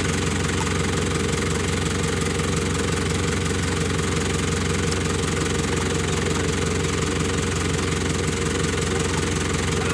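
Steady, unchanging low mechanical hum with a hiss above it, at an even level throughout.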